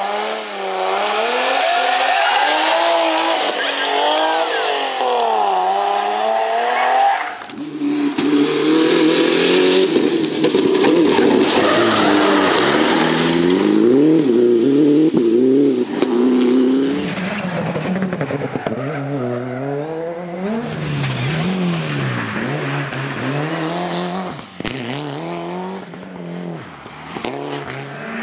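Rally cars driven hard, engines revving up and down repeatedly through the gears, with some tyre squeal. The engine sound changes abruptly about seven seconds in to a deeper-pitched car.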